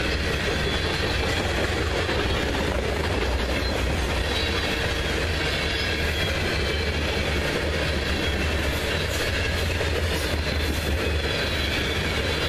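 Covered hopper cars of a CSX freight train rolling past close by: the steady rumble and rattle of steel wheels running on the rails.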